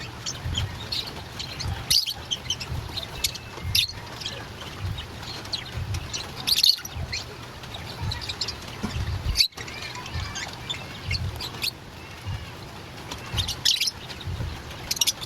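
Lovebirds chirping and twittering in quick, high, short calls that come in busy clusters throughout.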